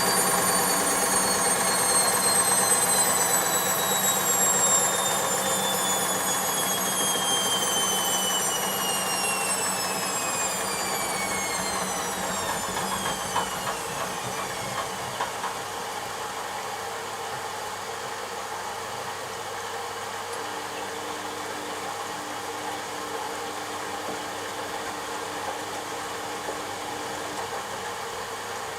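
Washing machine drum spinning down after a spin cycle: the motor's high whine falls steadily in pitch and fades over about fifteen seconds. It leaves a quieter steady hum.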